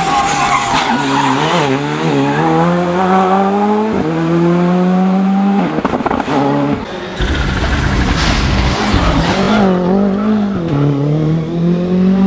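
Turbocharged rally car engine driven hard: the pitch climbs through the revs, drops sharply at gear changes about four and six seconds in, and dips and rises again near the end. Around six seconds in there is a cluster of sharp cracks as the throttle is lifted.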